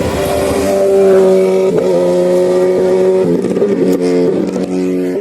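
Racing car engine held at high, steady revs, its pitch jumping in sudden steps a few times.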